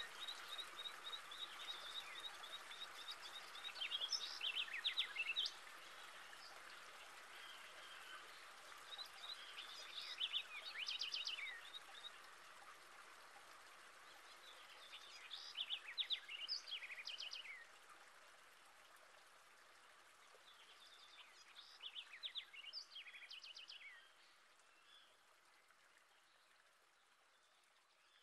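A songbird singing short, rapidly trilled phrases about every six seconds over a steady rushing hiss, the whole growing fainter toward the end.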